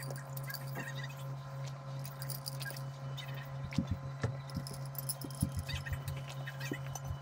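Scattered small clicks, taps and rattles of objects being handled, a few sharper knocks about halfway through, over a steady low electrical-sounding hum.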